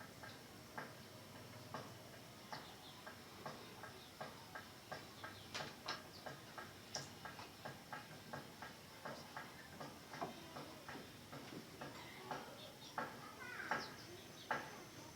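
Faint, regular tapping, about three taps a second, with a few short bird chirps near the end.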